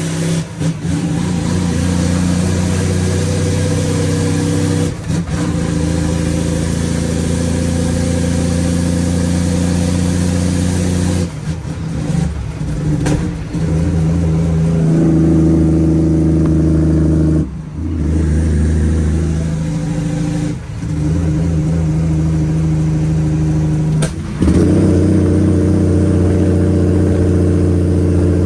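Straight-piped Cummins ISX inline-six diesel running loud under load, its note dropping out briefly several times and picking up again at a shifted pitch, as the 18-speed transmission is shifted through the gears.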